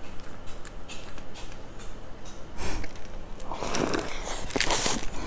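Soft brown sponge cake dipped in a dark paste being bitten and chewed close to the mic: light wet clicks at first, then dense, loud biting and mouth noises from about two and a half seconds in.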